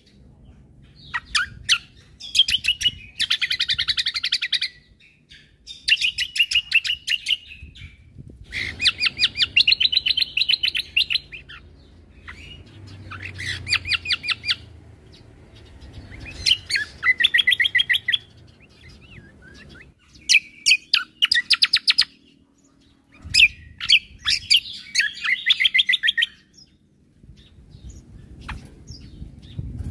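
Cucak kombo (kecial kombo) songbird singing in full voice. It gives repeated phrases of fast, rattling, evenly spaced notes, the rapid 'tembakan' bursts, each one to two seconds long with short pauses between.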